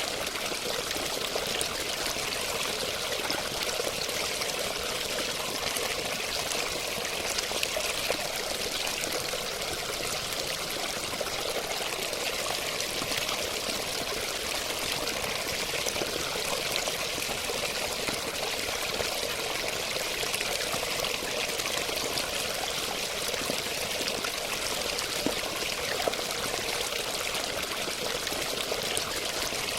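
Steady running water, splashing and trickling continuously with many small splashes and no pauses.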